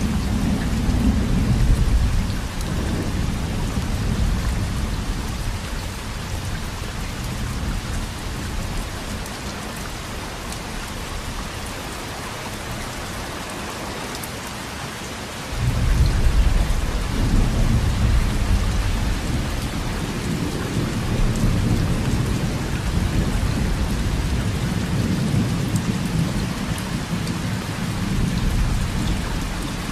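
Steady heavy rain with rolling thunder. A low rumble fades away over the first half, then a new roll of thunder breaks in suddenly about halfway through and rumbles on to the end.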